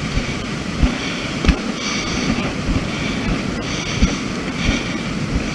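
Hiking footage's own sound: wind buffeting the camera microphone, with irregular low thuds of footsteps on rock and recurring hissing breaths of a hiker huffing and puffing on the climb.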